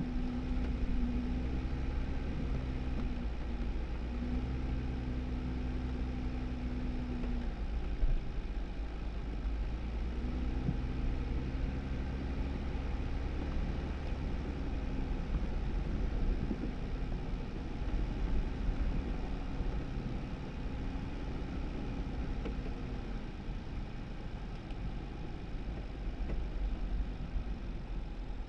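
2018 Jeep Wrangler driving slowly on a snowy road: a steady engine drone over low tyre and road rumble. The engine note drops away briefly about a third of the way in and fades again near the end.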